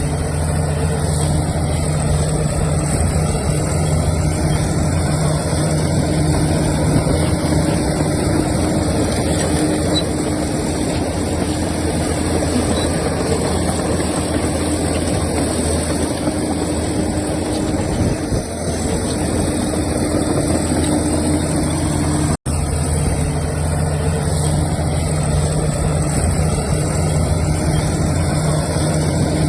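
Diesel engine of heavy earthmoving machinery running steadily at a constant speed, with the sound dropping out for an instant about two-thirds of the way through.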